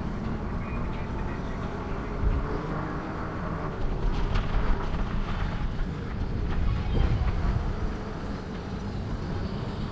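Wind rushing over the microphone and rolling rumble while riding a bicycle, a steady low noise that swells a few times, with a few light clicks about four to five seconds in.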